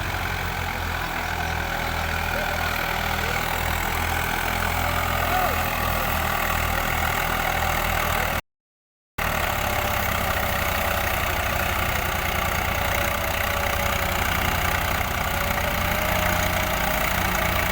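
New Holland tractor's diesel engine running steadily with an even low throb. The sound cuts out completely for under a second about eight seconds in.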